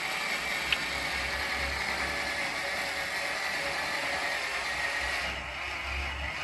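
Tiny 6-volt RC car motor driving an oversized 3D-printed plastic tank track around its cogs and greased bearings, a steady whirring clatter of gears and track links. There is one small click about a second in.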